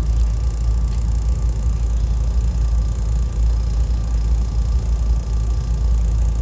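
Steady low rumble of a SEPTA Regional Rail electric train running between stations, heard from on board.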